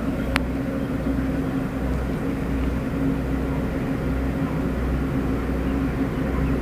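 Train standing at a station, its machinery giving a steady hum with an uneven low rumble underneath. A single sharp click comes shortly after the start.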